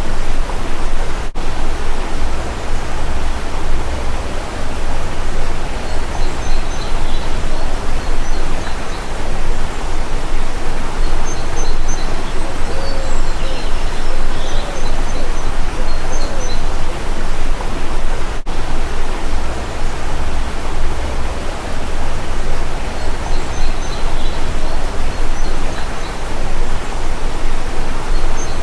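Loud, steady rushing noise, like running water or wind, with faint bird chirps and calls scattered through it.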